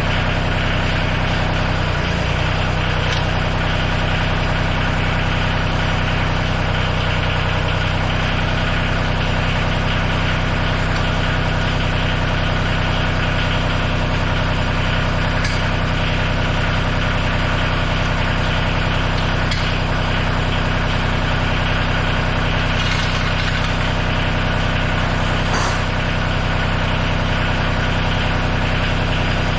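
Tractor engine running at a steady, unchanging speed, with a few faint light clicks on top.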